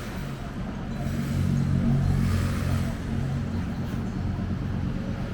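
A motor engine running steadily, growing louder about a second in and easing off after about three seconds.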